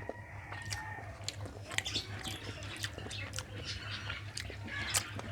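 A person chewing a mouthful of mutton curry, potato and rice close to the microphone: soft, irregular wet clicks over a low steady hum.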